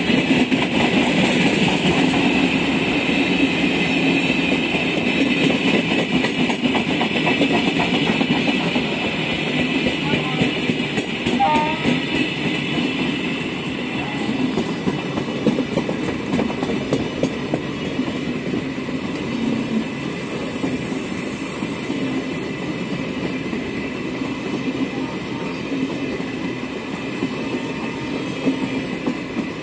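Indian Railways LHB passenger coaches running past on the track: a continuous rumble of wheels on rail with clicks over the rail joints. The sound slowly eases as the last coaches go by.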